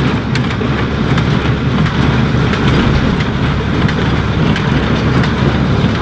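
Leyland Synchro 262 tractor running with an International small square baler working behind it. A steady mechanical running noise with occasional sharp clicks.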